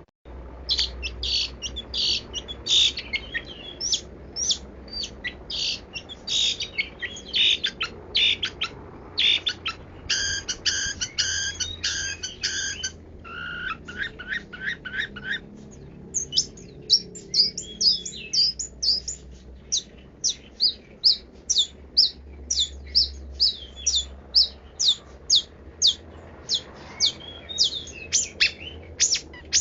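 Long-tailed shrike (pentet) singing a varied song: quick runs of sharp high chattering notes, a denser, harsher stretch about halfway through, then a steady string of short sharp chips about two a second.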